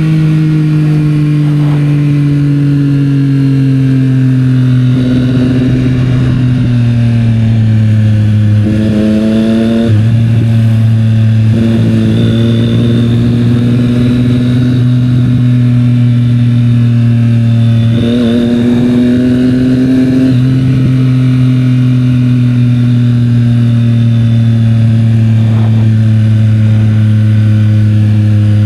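Triumph Street Triple 765 R's three-cylinder engine through a Yoshimura exhaust, running steadily under way. The note breaks off and changes pitch briefly about a third of the way in and again about two thirds of the way through.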